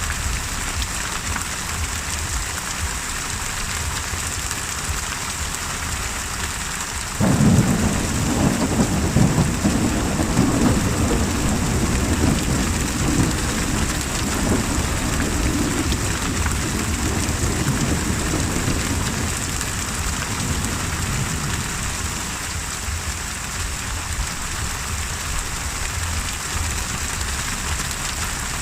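Steady rain, with a thunderclap that breaks in suddenly about seven seconds in and rolls on as a low rumble, slowly fading over the next ten seconds or so.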